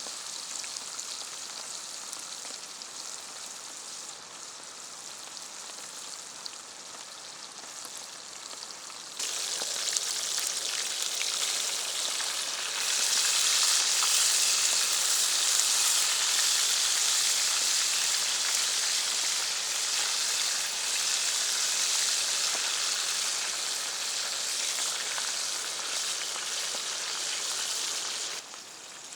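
Food sizzling as it fries in a pan. The sizzle comes in suddenly about nine seconds in over a quieter steady hiss, gets louder a few seconds later, and cuts off abruptly just before the end.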